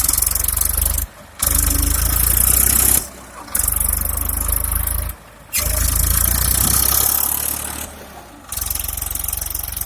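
Tractor engine running hard while pulling through heavy sand. Its sound cuts off abruptly and returns several times.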